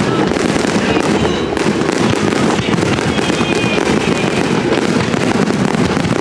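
A dense, continuous barrage of fireworks: many overlapping booms and crackles running together into one steady rumble, with a few faint whistles above it.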